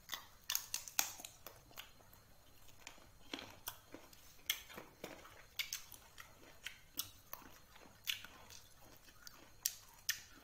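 Chewing and biting crunchy slices of green mango, with irregular sharp crunches and clicks.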